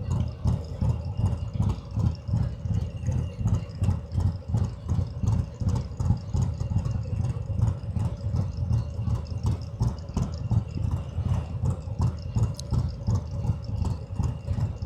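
Harley-Davidson Road King's air-cooled Milwaukee-Eight V-twin idling with an even pulsing beat, about four pulses a second, while sitting hot in stopped traffic.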